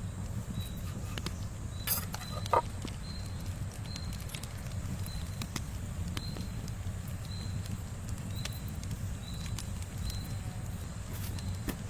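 Campfire crackling: scattered sharp pops over a steady low rumble, with two louder pops about two seconds in. A faint short high chirp repeats about every second throughout.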